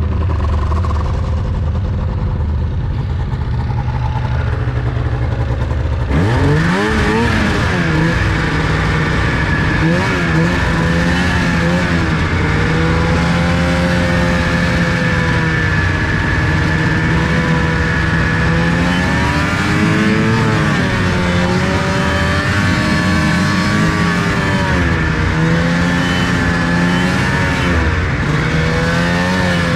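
Two-stroke engine idling steadily, then about six seconds in it revs up and the machine pulls away, its pitch rising and falling with the throttle as it is ridden.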